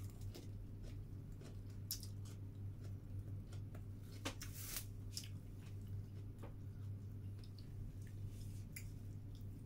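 A person chewing food wrapped in lettuce: scattered short, wet mouth clicks over a steady low hum.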